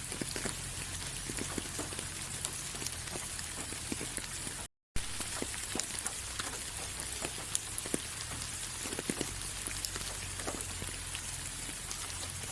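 Steady rain falling, with many separate drops ticking against a surface over an even hiss. The sound cuts out completely for a split second a little before halfway, then resumes.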